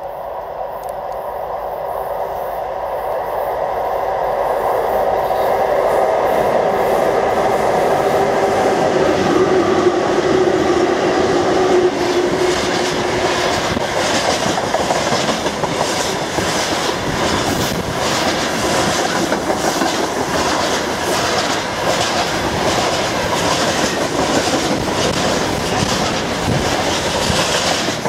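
VL11.8 two-section DC electric freight locomotive approaching and passing with a steady hum that grows louder and dips slightly in pitch as it goes by. About twelve seconds in, the freight wagons take over, rolling past with an even, continuous clickety-clack of wheels over the rail joints.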